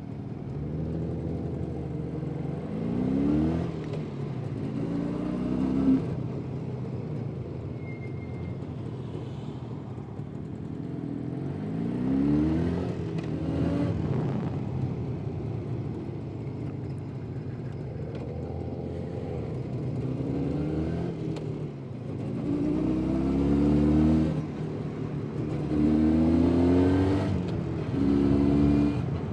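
Jawa 350 type 638 motorcycle's two-stroke twin-cylinder engine under way, pulling up in pitch through the gears several times and dropping back between pulls.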